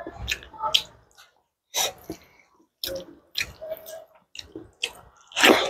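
Close-miked wet chewing and lip smacking: a string of irregular short smacks and clicks with brief pauses, loudest near the end. Fingers are squishing rice and fried egg together on the plate.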